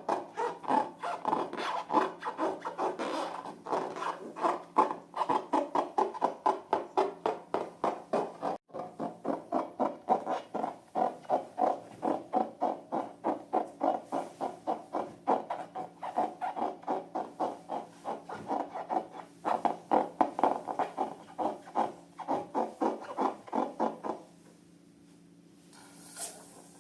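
Fast repeated rubbing strokes, about four a second, stopping shortly before the end.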